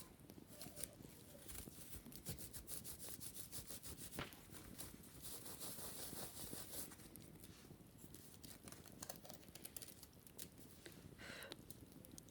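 Quiet scratching and brushing on a wicker basket: dense, irregular small crackles and clicks, with a longer, brighter brushing stroke about halfway through.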